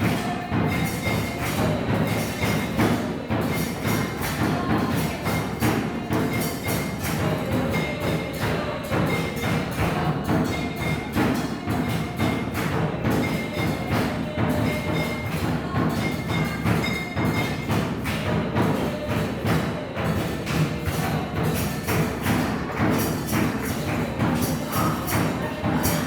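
Percussive music: a dense, continuous run of quick knocks and strikes, with short ringing tones scattered through it.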